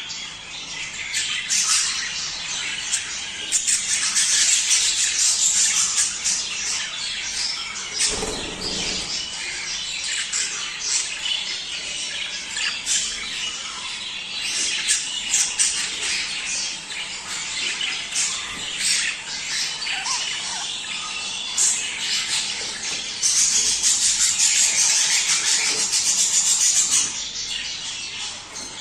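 A flock of budgerigars calling and chattering busily, with many high-pitched overlapping calls. The calling swells louder for a couple of seconds near the start and again near the end. It is the kind of breeding-season chatter used to encourage budgies to mate.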